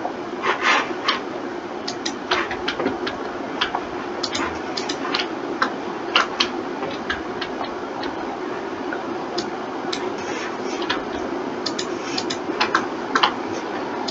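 Irregular clicks of a computer mouse and keyboard keys, sometimes single and sometimes in quick runs, over a steady hum.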